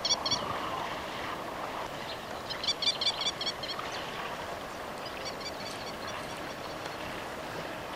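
A bird calling in runs of rapid, short, high-pitched notes: one run just at the start, a louder one about three seconds in, and a fainter one about five and a half seconds in, over a steady background hiss.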